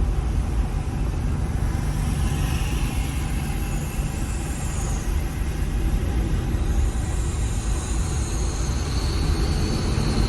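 Car on the move: a steady low rumble of engine and road noise, with faint high-pitched whines drifting in pitch now and then.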